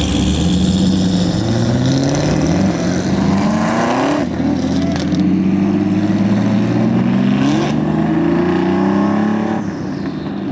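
A car engine accelerating hard through the gears, its pitch climbing steadily and dropping at a gear shift about four seconds in and again at about seven and a half seconds.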